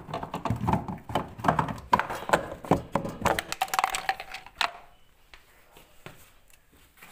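A rapid run of knocks and clatters, as of hard parts being handled, for about four and a half seconds, then a few scattered clicks.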